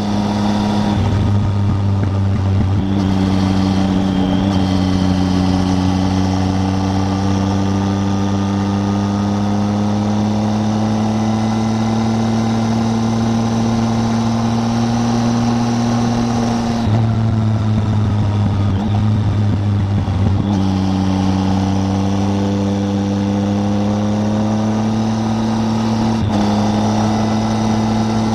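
Triumph Tiger 800's three-cylinder engine running under way at a steady pace, its note rising slowly. The engine note breaks up briefly a few times: a second or two in, for a few seconds past the middle, and once near the end.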